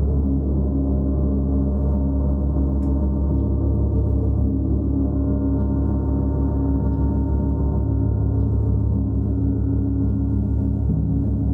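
Large gong sounding in a sustained, steady wash of deep overlapping tones, with no distinct strike.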